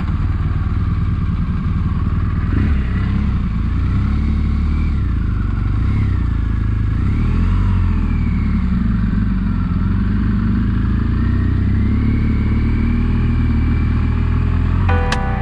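Motorcycle engine running while riding, its pitch repeatedly rising and falling as the throttle opens and closes through the gears. Music starts right at the end.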